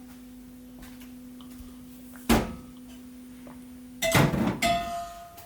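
A steady low hum from a running kitchen appliance, with a sharp click about two seconds in. Near four seconds the hum stops and a loud clatter of dishes follows, with a brief ringing tone.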